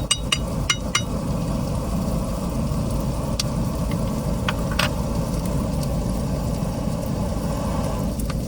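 A steady low drone like an idling engine, with a few sharp metal clinks of a utensil against a frying pan in the first second and a couple of fainter clinks later on.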